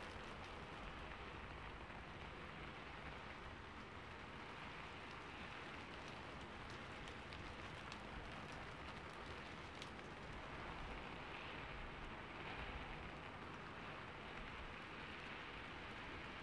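Steady rain patter from a rain ambience recording, with a few faint scattered clicks.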